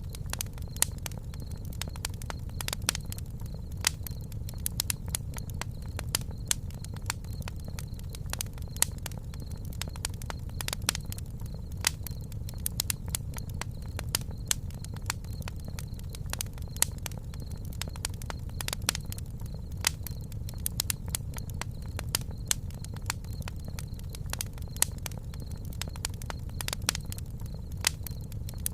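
Campfire crackling: irregular sharp pops and snaps, several a second, some louder than others, over a steady low rumble of the flames.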